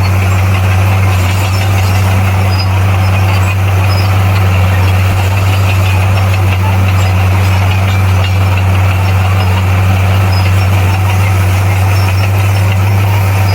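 Bulldozer's diesel engine running at a steady, even speed with a deep hum.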